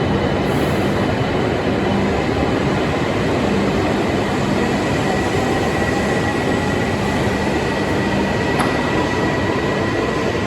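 JR East E6 series Shinkansen running, heard from inside the passenger car: a steady, dense rumble of running noise with a faint steady high tone through it.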